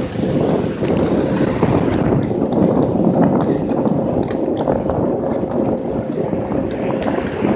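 Riding noise from a bicycle: a loud, steady rumble of wind and road on the microphone, with many small rattling clicks and a faint steady whine.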